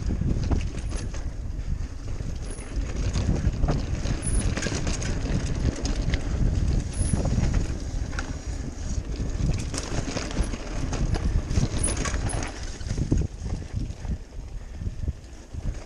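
Mountain bike riding over a dirt trail: tyres rumbling on the ground, with the frame and parts rattling and clicking over bumps, and wind on the microphone.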